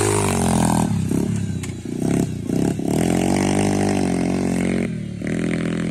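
Off-road motorcycle engine revving hard on a steep, rough hill climb, the revs rising and falling with the throttle. Around two seconds in the engine note drops out and picks up again several times, with a few short knocks, and it dips once more briefly near the end.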